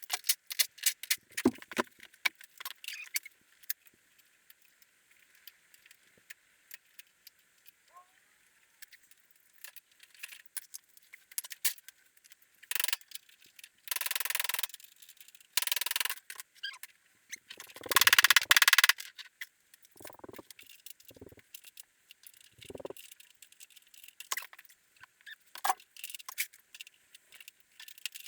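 Metal tools and parts clinking and clattering as a golf cart's front suspension and steering are taken apart, with a few short bursts of a power tool, the loudest about two-thirds of the way through, and some dull knocks after it.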